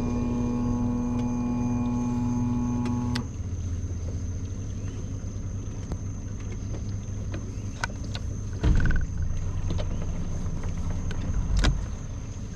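A boat motor running steadily that cuts off suddenly about three seconds in, leaving a low rumble and a few knocks and bumps, the loudest near the middle.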